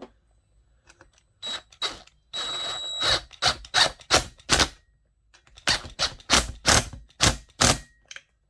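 Hard, sharp knocks from working on chainsaw gearbox parts at the bench: a short scrape, then two runs of strikes about three a second, five in the first run and six in the second.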